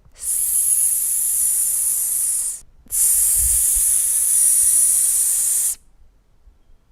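A steady, high hiss of the kind used to model the 's' sound, held for about two and a half seconds, stopping briefly, then held again for nearly three seconds.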